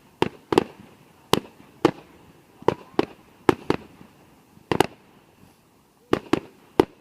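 Fireworks exploding: an irregular run of about a dozen sharp bangs, some in quick pairs, each with a short echo trailing after.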